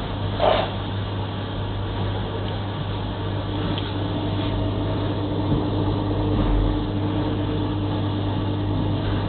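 Elica microwave oven running in microwave-plus-convection mode just after start, with a steady low hum. A higher steady tone joins about three and a half seconds in, and there is one short noise about half a second in.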